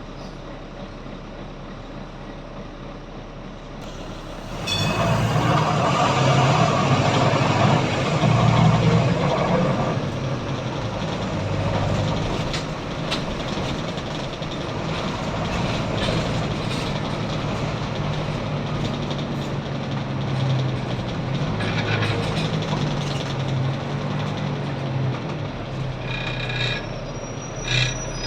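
Volvo B9TL double-decker bus's six-cylinder diesel engine running quietly, then pulling away about four and a half seconds in with a sharp rise in loudness. Its pitch steps up and down through the automatic gearbox's changes as the bus drives on. A few short high-pitched tones sound near the end.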